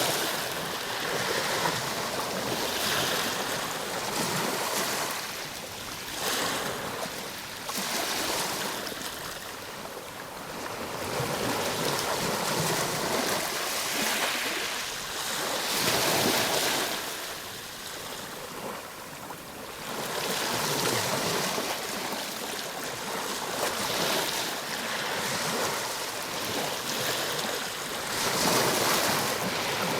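Ocean waves breaking and washing on a shore, a steady surf rushing that swells and eases every few seconds.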